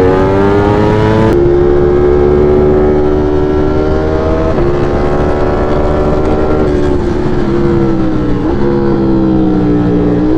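V4 sport motorcycle engine running at a steady cruising speed under the rider. Its pitch stays level and steps down slightly a few times.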